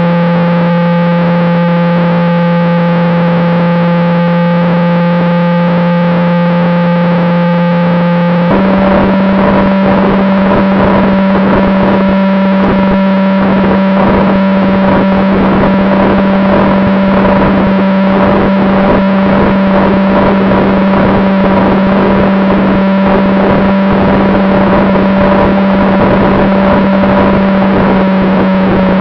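A model jet's ducted fan heard through on-board camera audio, a steady, heavily distorted whine with rushing air noise. About eight seconds in, the pitch steps up slightly and the rush gets louder, as the throttle is raised.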